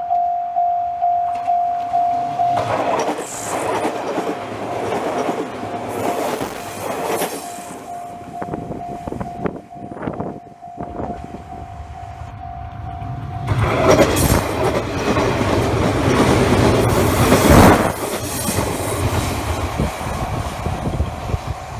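Level-crossing warning bell ringing in a steady repeating ding, about two strikes a second, as a JR West 117 series electric train runs past close by with its wheels clattering over the rail joints. About 13 seconds in, the bell stops abruptly and a second pass of the train starts, loudest a few seconds before the end.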